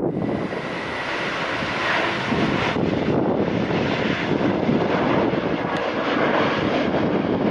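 Jet airliner engines at takeoff power: a loud, steady rushing noise with a deep rumble under it.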